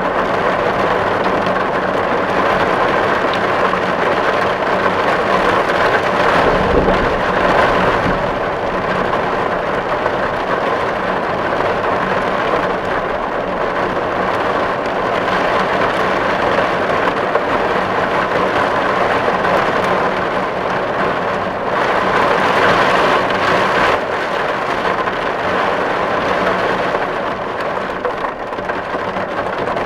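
Steady rain drumming on a metal tin roof, a dense even patter. About seven seconds in there is a brief low rumble.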